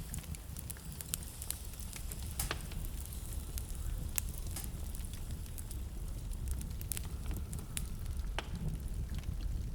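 Wood fire in a fireplace crackling, with sharp, irregular pops a few times a second over a steady low rumble.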